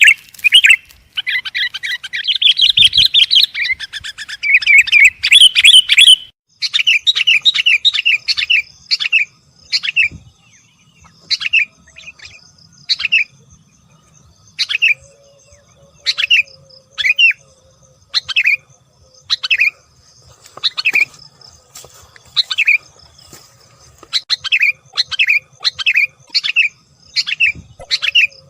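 Sooty-headed bulbul (kutilang) calling. For the first six seconds it chatters loud and fast and without a break; then the sound changes suddenly to separate short chirps falling in pitch, about one a second, some in quick runs of two or three.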